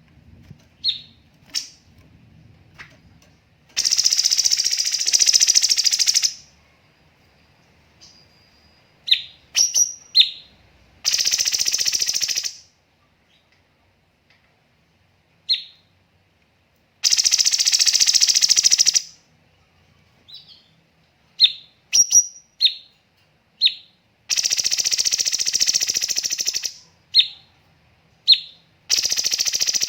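Cucak cungkok singing: short sharp calls alternate with long, dense, rapid-fire rattling bursts (tembakan) of two to three seconds each, five of them, with brief gaps between.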